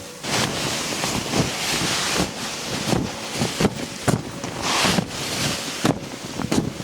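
Wind gusting over the microphone in two swelling rushes, with a run of short, irregular crunching thumps underneath.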